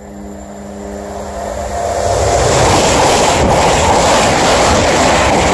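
High-speed train passing on the East Coast Main Line: its rushing noise swells over about two and a half seconds, then holds loud and steady as it goes by.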